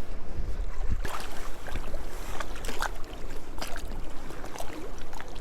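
Sea water splashing and sloshing in the shallows, with several short splashes, over a low rumble of strong wind on the microphone.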